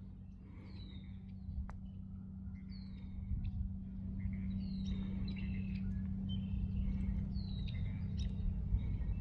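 Small birds calling: short down-slurred high chirps repeating about once a second, mixed with other brief chirps, over a steady low hum and a low rumble.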